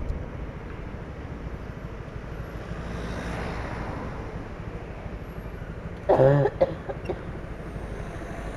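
Steady motorcycle riding noise, a low engine and wind rumble. About six seconds in, a person coughs with a head cold.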